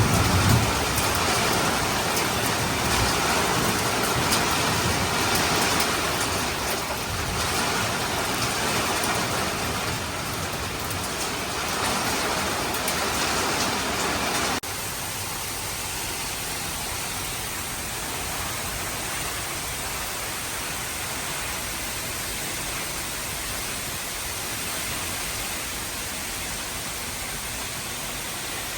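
Heavy rain pouring down in a steady hiss. About halfway through it drops suddenly to a quieter, even hiss.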